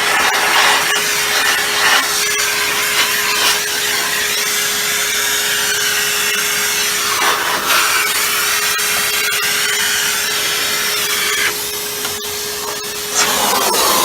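A vacuum cleaner running with a steady hum and a hiss of airflow, with rubbing and scraping as dirt is cleared from the parts. The steady tone stops near the end.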